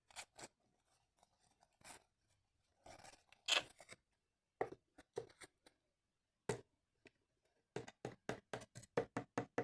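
Small plastic toy figurines and props being handled and set down: scattered light clicks, taps and rustles, coming faster near the end.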